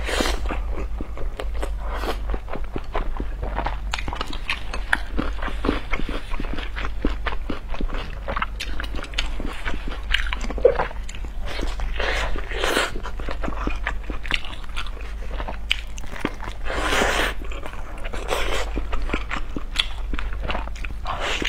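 Close-miked eating of large boiled dumplings: biting and chewing with many small, moist mouth clicks, louder for a moment about twelve, seventeen and nineteen seconds in. A steady low hum runs underneath.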